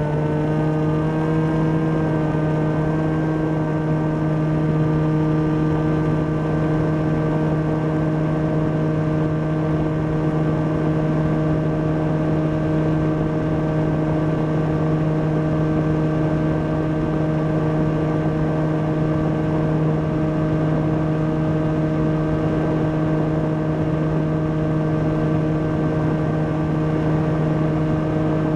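Volantex Ranger EX RC plane's electric motor and propeller running steadily in flight, heard from the onboard camera as a steady hum with a rush of air over it. The pitch wavers briefly in the first few seconds and then holds level at cruise throttle.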